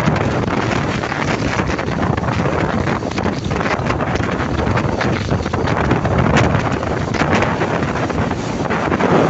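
Strong mountain wind blowing hard across the microphone, loud and gusty.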